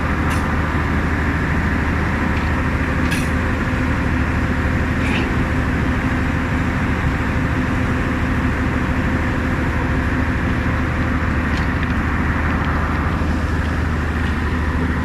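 On-site rail welding machine running with a steady, loud, low hum, with a few short clicks about a third of a second, three seconds and five seconds in.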